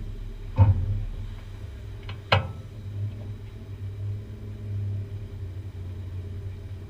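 Low steady rumble of 1-litre stock car engines running on the track, with two sharp knocks, the first just over half a second in and the second, louder one at about two and a half seconds.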